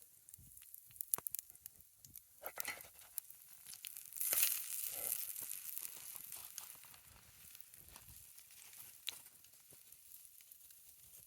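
Food sizzling in a hot oiled cast iron skillet over a campfire, with scattered crackles and pops. The sizzle swells sharply about four seconds in and fades over the next couple of seconds.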